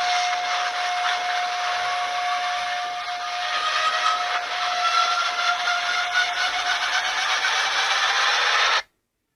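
Disaster-film trailer sound effects: a loud rushing hiss with a steady whistling tone and a fainter tone that slowly rises, cutting off suddenly just before the end.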